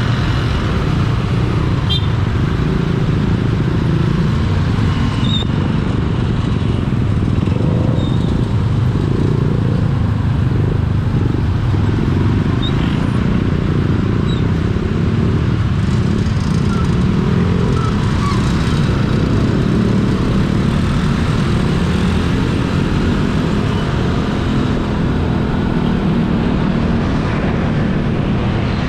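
Steady road traffic noise heard while riding: vehicle engines running and a continuous low rumble of tyres and wind, with a few brief faint high-pitched sounds.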